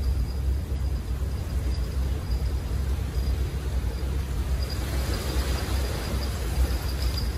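Steady low rumble of wind buffeting the microphone outdoors by the sea, with a faint thin high tone running under it.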